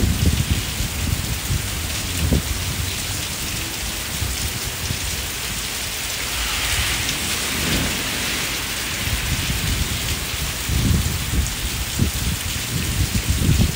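Steady rain falling on a garden and brick walk, a continuous hiss that grows heavier about halfway through. Low rumbling comes and goes near the start and again over the last few seconds.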